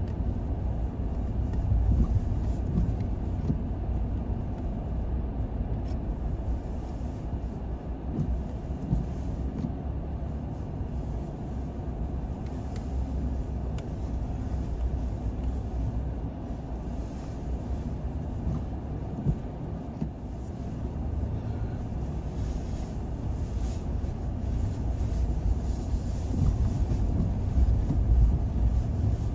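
A car driving along a road: a steady low rumble of engine and tyre noise, growing a little louder near the end.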